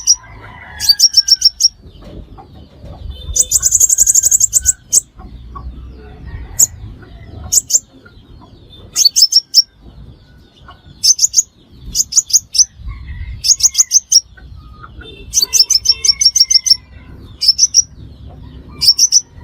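Sunbird calling: short runs of rapid, high, sharp chip notes, repeated every second or two, with one longer, denser run about four seconds in. This is the lure call used to draw sunbirds to a trap.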